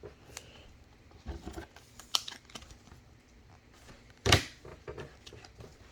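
Trading cards being handled on a table: light clicks and rustles as cards are flipped through and set down, with one sharper tap about four seconds in.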